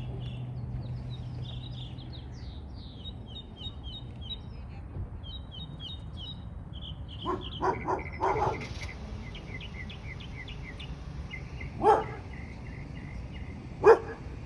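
Small birds chirping in quick repeated series over a low steady outdoor rumble. About halfway through comes a cluster of short loud sounds, and two sharper, louder ones follow near the end.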